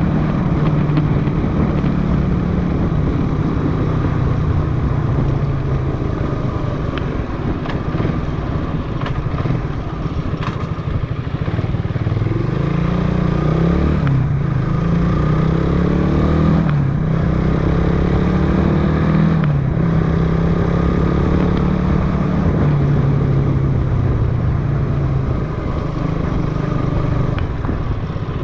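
Motorcycle engine running while riding. About halfway through, its pitch climbs and drops back three times, like upshifts while accelerating.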